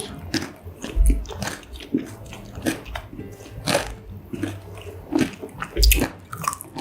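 Close-miked biting and chewing of a mozzarella corn dog: irregular crunches of the fried batter and wet chewing, with two low thumps, about a second in and again near the end.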